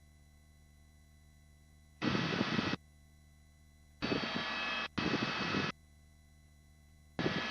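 Helicopter cabin and engine noise heard through the headset intercom, cutting in and out in short bursts of about a second each, four times, with a faint steady hum between.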